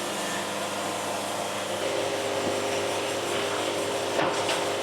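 Band sawmill's engine and hydraulics running steadily while a log is jacked up on the deck; the hum changes pitch about two seconds in, and there is a light knock near the end.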